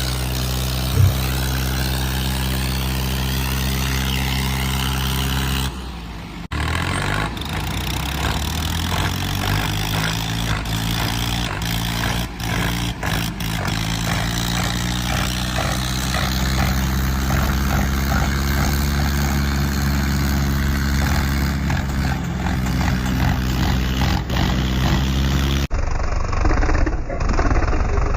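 Tractor diesel engines running hard under load in a tug-of-war between a John Deere 5210 and a 963. The note holds steady at first, breaks off abruptly about six seconds in, then comes back with the pitch shifting and slowly rising. Another sudden change comes near the end.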